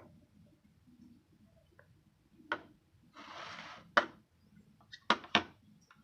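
Tableware being handled during a meal: a few sharp clicks and knocks, two of them close together near the end, with a brief rustle about half way.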